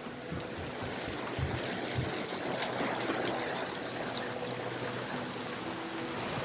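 Steady rush of trickling, splashing water.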